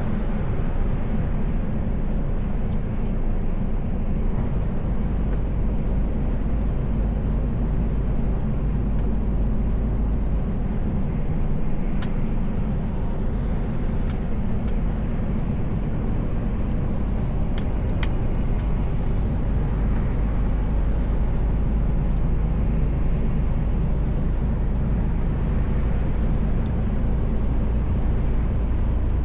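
Mercedes Actros L truck on the move, heard from inside the cab: a steady low drone of engine and road noise, with a few faint ticks about midway.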